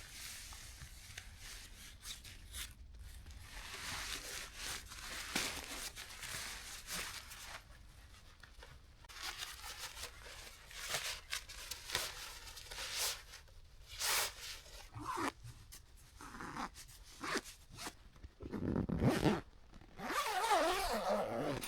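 Zippers being pulled, a series of short, irregular zips along with rustling of fabric or camping gear.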